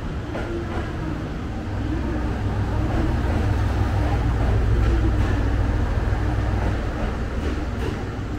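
Echigo Tokimeki Railway's 455/413-series electric multiple unit running, a low rumble that swells a couple of seconds in and eases again, with a few faint clicks near the end.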